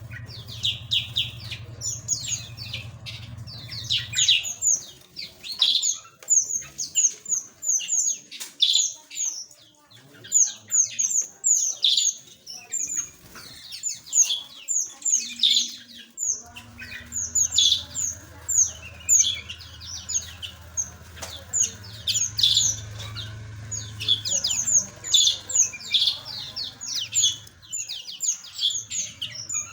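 Many small aviary birds chirping continuously in quick, high, falling notes. A low hum underneath drops out about four seconds in and returns a little past the middle.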